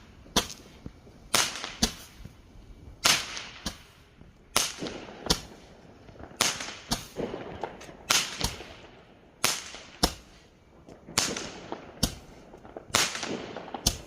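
Fireworks going off: sharp cracking bangs at an irregular pace of about one a second, each trailing off in a short echo.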